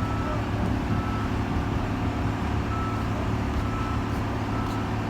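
Heavy diesel machine engine running steadily, with a reversing alarm giving short high beeps at uneven intervals of about a second.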